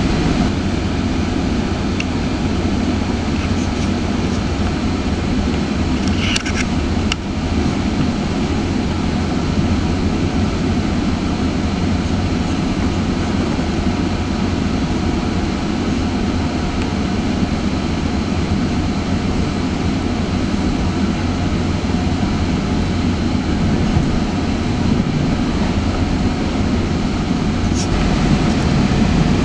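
GO Transit passenger train heard from inside a moving coach: a steady running rumble of wheels on rail, with a few brief clicks about a quarter of the way in and again near the end.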